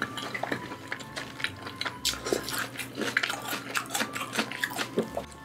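Close-miked chewing of a mouthful of sauced roast chicken skin: irregular soft clicks and wet smacks, many a second.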